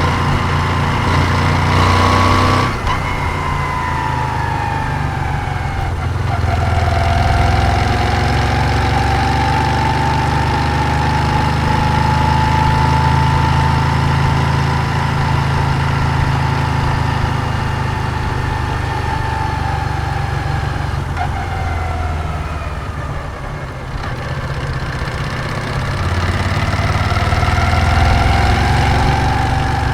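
Moto Guzzi V7's air-cooled transverse V-twin running on the move, heard from the rider's seat. Its revs rise and fall with the throttle: a sudden drop about three seconds in, a long steady pull, a dip to low revs past the middle, then a climb again near the end.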